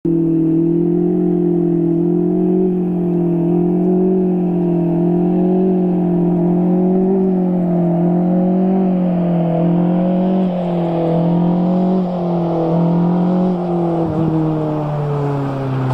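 Car engine running at steady, fairly high revs with a slight waver, the pitch dropping in the last couple of seconds.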